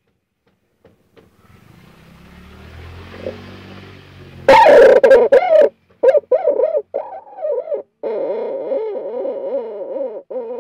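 An eerie, low wavering tone that warbles up and down continuously, of the kind circulated as a mysterious sound in the sky. It follows a hiss that swells for a few seconds and a loud sudden burst about four and a half seconds in.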